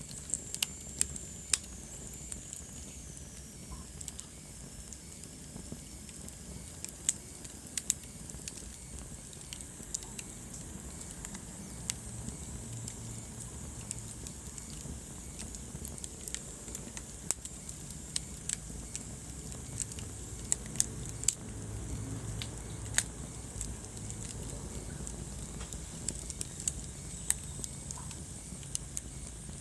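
Wood fire crackling in a fireplace: irregular sharp pops and snaps over a low, steady rumble of the flames, with a faint high whistle sliding down in pitch during the first few seconds.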